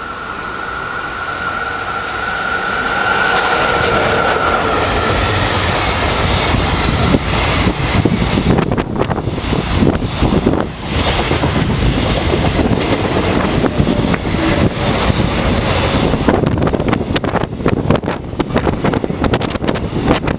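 JR Freight EF66 100-series electric locomotive approaches at speed hauling a container freight train, with a high steady whine during the first few seconds as the sound builds. The container wagons then rush past with a loud rumble and a rapid clatter of wheels over rail joints from about seven seconds in.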